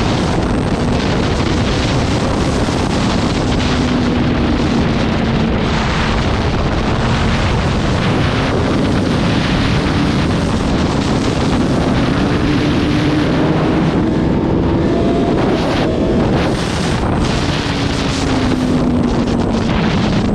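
Motorcycle riding at speed, with heavy wind rushing over the microphone and the engine's note climbing and falling with the throttle.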